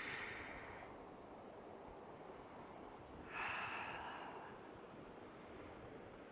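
A person's breathing: a soft breath out at the start, then a louder one lasting about a second a little over three seconds in, with faint steady hiss between.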